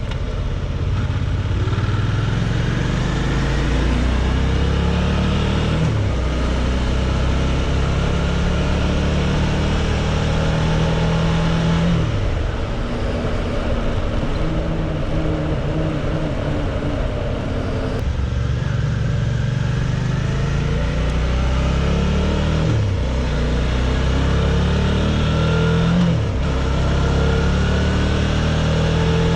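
Suzuki V-Strom 650's V-twin engine pulling through the gears under way. The revs climb and drop sharply at each shift, about four times (around 6, 12, 22 and 26 seconds in), with wind rush over it.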